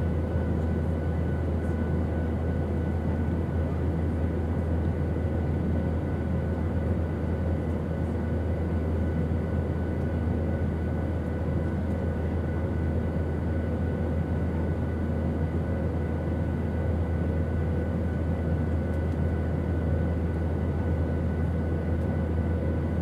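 Steady airplane engine drone: a deep, even hum with a few faint steady whining tones over it, unchanging throughout.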